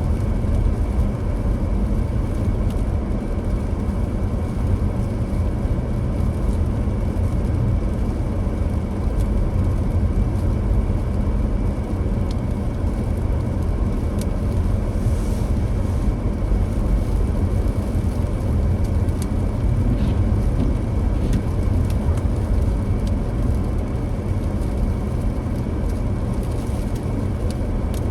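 Car driving along a road: a steady low rumble of engine and tyre noise that holds an even level throughout.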